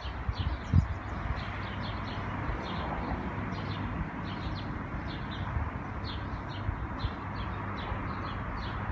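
A small bird chirping over and over, two or three short high chirps a second, over a steady background hiss. A few low thumps in the first second.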